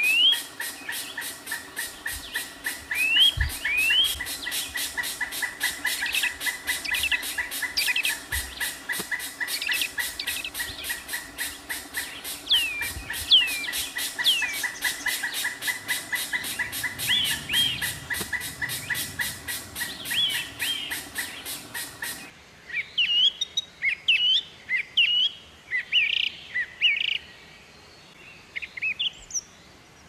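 Birds calling: short rising chirps over a fast, even, high-pitched pulsing. About two-thirds of the way through the pulsing cuts off abruptly, and a different set of quicker chirps continues.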